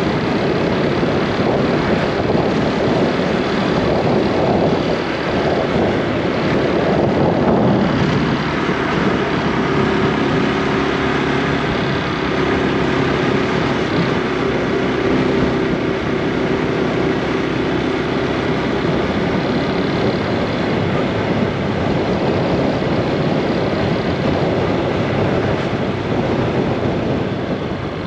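Honda Super Cub C125's air-cooled single-cylinder four-stroke engine running while riding. The engine note shifts about eight seconds in, then holds steady.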